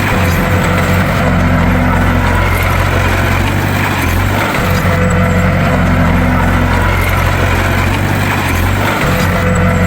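Bulldozer's diesel engine running steadily, a loud low drone.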